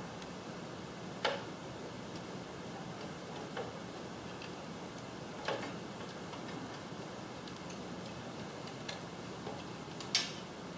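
Scattered sharp clicks and taps of small parts being handled during wiring and circuit-board work on a garage door opener, about five over ten seconds with the loudest near the end, over a steady low hiss.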